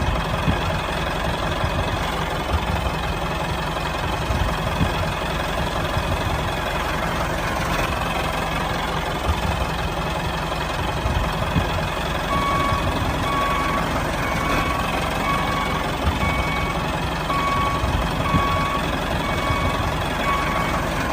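Tractor engine running steadily with a low rumble. From about halfway through, a reversing alarm beeps on and off at a single pitch.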